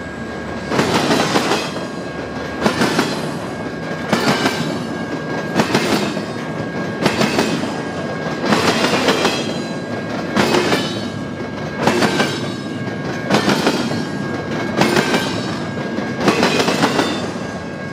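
CSX intermodal freight cars rolling past, their wheels clacking in regular groups about every one and a half seconds over a steady rumble, with a faint steady high whine.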